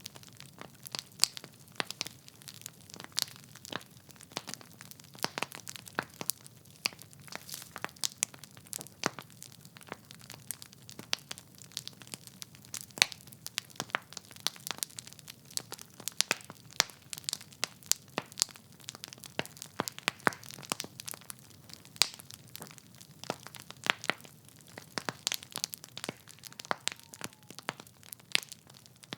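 Wood fire crackling: logs burning in a fireplace, with irregular sharp pops and snaps several times a second over a faint low rumble of the flames.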